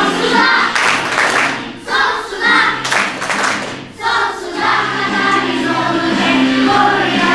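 A class of primary-school children singing a song together in chorus.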